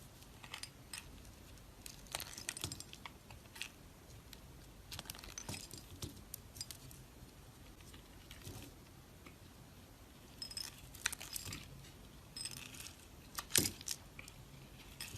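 Dry soap crunching and crackling as it is cut with a knife, in irregular short crisp bursts every second or two.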